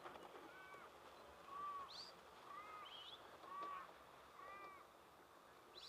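Faint bird calls: a run of short, arched calls repeated about once a second, with a few higher, sharper chirps mixed in.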